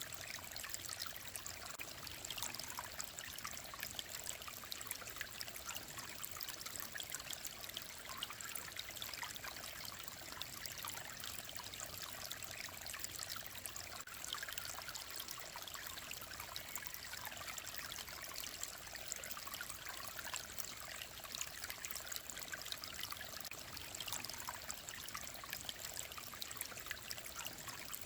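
Mountain stream flowing steadily, a continuous water sound that sits mostly high, with little low rumble.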